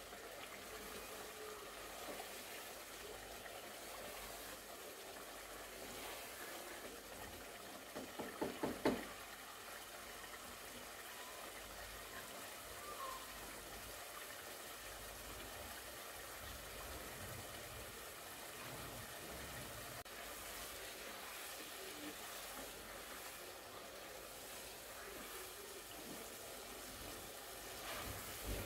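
Meat masala frying in oil in a pot, a faint steady sizzle and bubbling, stirred with a spoon. About eight seconds in comes a quick run of four or five knocks, with a few more near the end.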